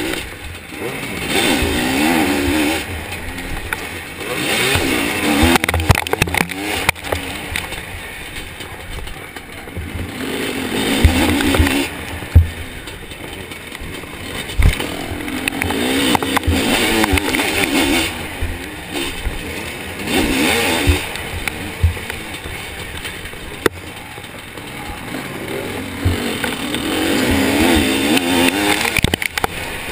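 Zabel 700 two-stroke sidecar-cross engine revving hard and easing off again and again, its pitch wavering, with wind rushing over the microphone and sharp knocks from bumps.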